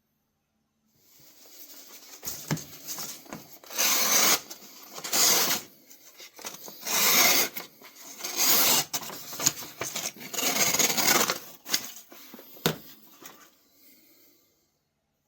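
A pocket knife blade being stroked across a sharpener: about half a dozen long scraping strokes, with fainter rubbing and a few sharp clicks between them.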